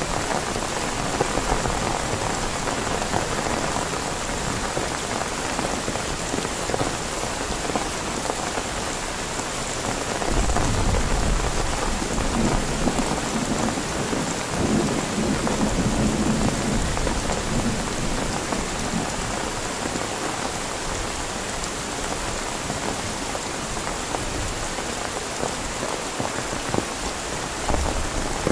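Heavy, steady rain, with a low rumble of thunder rising about ten seconds in and rolling on for several seconds before fading back under the rain.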